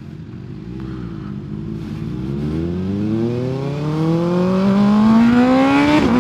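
Kawasaki ZX-6R 636 sport bike's inline-four engine pulling away hard from a stop, its revs climbing steadily for several seconds, then dipping briefly near the end as it shifts up a gear.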